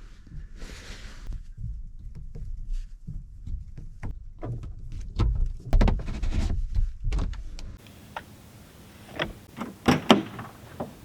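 Irregular clicks, knocks and thuds over a low rumble, loudest around five to six seconds in; the background changes abruptly about eight seconds in, followed by a few sharp knocks.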